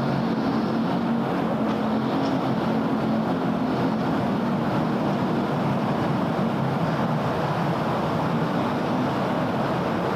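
Steady city road traffic: a continuous wash of vehicles running past, with a low engine drone from a heavy vehicle through most of it that eases off near the end.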